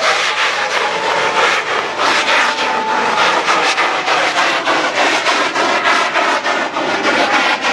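Lit fireworks burning with a loud, dense hissing and crackling, a few thin whistling tones rising out of it in the first few seconds.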